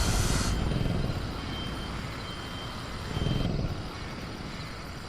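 Sound-designed dinosaur-cage ambience: a low rumble that fades away at the start, a thin steady high tone for about two seconds in the middle, and a low swell about three seconds in.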